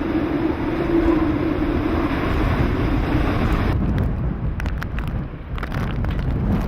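Hurricane wind buffeting the microphone: a loud, steady rumble with a faint steady whistle that fades out about halfway, followed by a few sharp clicks.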